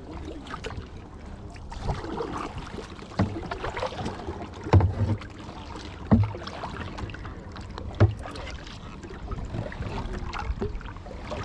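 Kayak paddling: paddle strokes in the water with splashing, and short low knocks about every second and a half, the loudest about 5, 6 and 8 seconds in.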